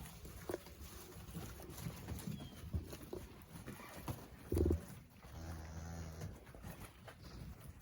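A cow gives one low moo, about a second long, around five seconds in, among scattered knocks and shuffling of cattle moving about, with a louder thud just before the moo.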